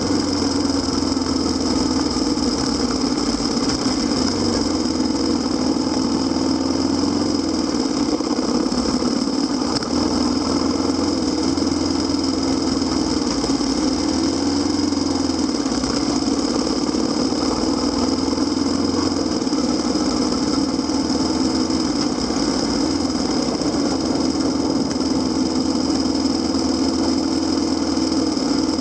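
Kawasaki KLX250SR's single-cylinder four-stroke engine running at a steady pitch that rises and falls only slightly.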